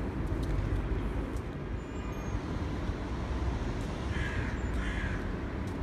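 Steady low rumble of background noise, with two short, harsh calls about four and five seconds in.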